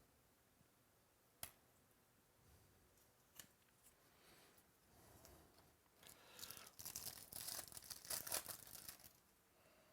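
A trading card pack's foil wrapper being torn open: a few seconds of crinkly tearing in the second half, after a couple of light clicks of cards being handled.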